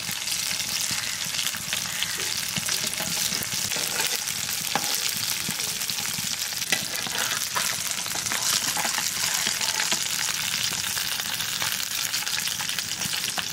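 Food frying in hot oil in a pan: a steady, loud sizzle, with occasional light clicks of a utensil stirring against the pan.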